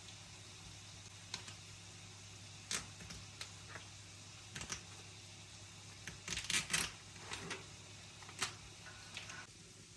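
Scattered light clicks and taps of household items being handled, with a quick cluster of louder knocks about six and a half seconds in, over a low steady hum.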